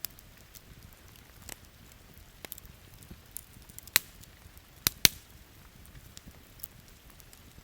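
Wood campfire crackling with scattered sharp pops, three loud ones about four and five seconds in, over a steady background of rain.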